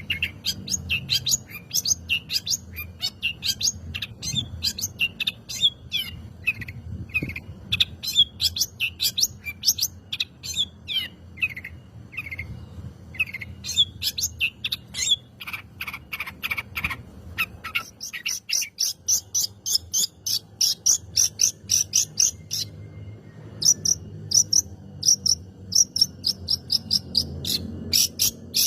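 Long-tailed shrike (cendet) singing a rapid, varied song of short high chirps and chatters, with a fast run of evenly repeated notes about two-thirds of the way through.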